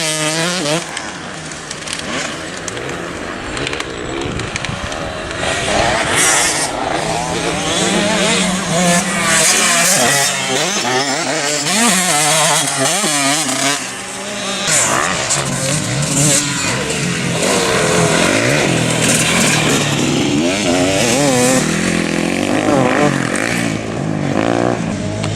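Several motocross bikes racing, their engines revving up and down with overlapping, rising and falling pitches as riders open and close the throttle.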